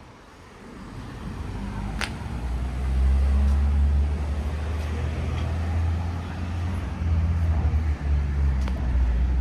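A motor vehicle's engine running close by with a low, steady rumble that swells about three seconds in. There is a single sharp click about two seconds in.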